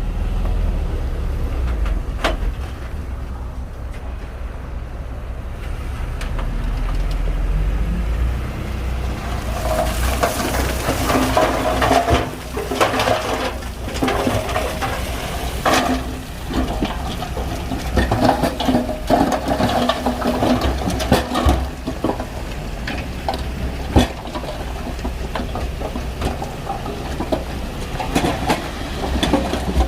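Bulldozer at work: a steady low diesel engine rumble, joined from about ten seconds in by irregular clanking, knocks and scraping, typical of steel tracks and the blade working soil.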